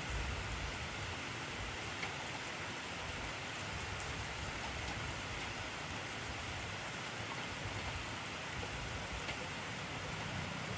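Heavy rain falling steadily: an even hiss of rain on surfaces, with a few faint ticks of single drops.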